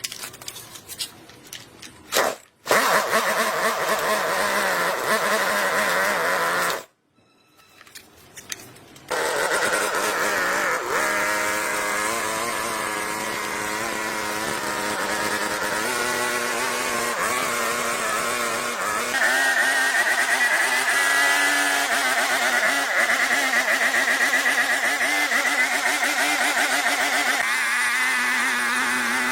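Restored chainsaw's engine running steadily, cutting out for about two seconds, then running again with a few shifts in pitch.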